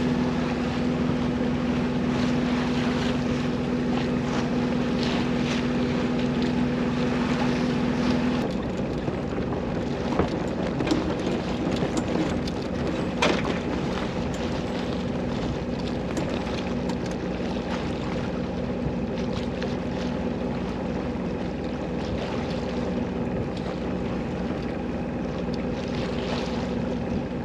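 Small sailboat's inboard engine running steadily under way, over a wash of water and wind noise. The engine's note changes slightly, getting a little quieter, about eight seconds in.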